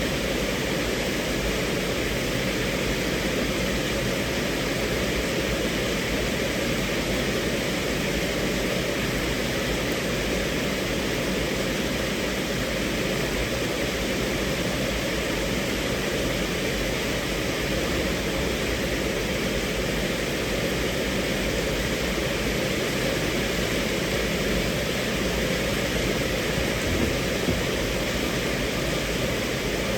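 Steady rain falling on a car's roof and windows, heard from inside the cabin.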